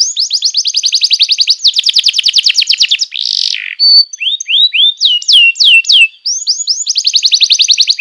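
Domestic canary singing: fast rolling trills of rapidly repeated notes, a harsh buzzy note about three seconds in, then a run of slurred down-sweeping whistles before another quick trill near the end.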